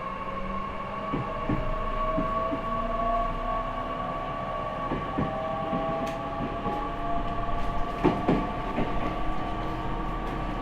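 Interior running sound of an E501 series electric train car with Toshiba IGBT VVVF inverter: the traction motor and inverter whine climbs slowly in pitch as the train accelerates, over a steady hum. A few paired clacks of the wheels passing rail joints come through.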